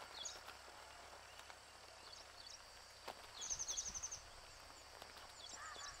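Small birds giving short, high chirps at intervals, with a quick run of about eight notes about three and a half seconds in. A low rumble comes at the same moment as that run.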